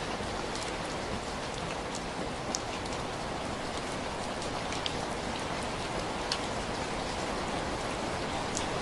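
Steady rain falling, a continuous even hiss, with a handful of sharp ticks scattered through it.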